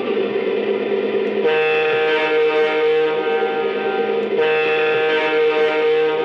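Lionel Texas Special F3 diesel's RailSounds system blowing its electronic diesel horn: a long chord blast starting about a second and a half in, then a second one right after it. Underneath is the steady diesel engine sound from the locomotive's speaker.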